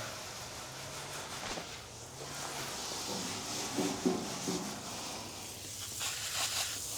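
Water spraying from a hose onto a car fender, a steady hiss, wetting the panel down before it is scrubbed with Comet cleanser. A few brief louder sounds come through around four seconds in.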